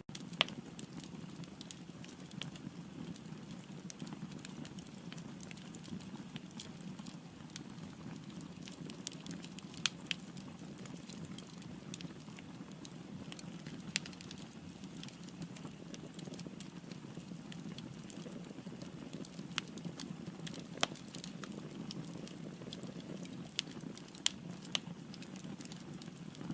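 Firewood burning in a fireplace: a steady low rush of flames with irregular sharp crackles and pops every second or two.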